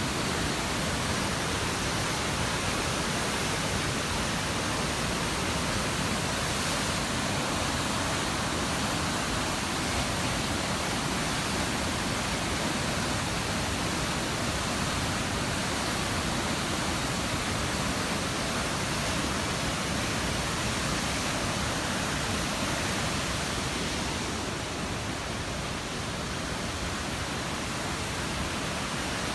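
Steady, loud rush of falling water, such as a waterfall, with no individual events; it eases slightly near the end.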